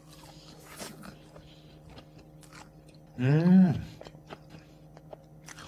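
A man chewing a chicken nugget with his mouth closed: soft, scattered chewing clicks. About three seconds in he gives a short 'mmm' hum through closed lips that rises and then falls in pitch.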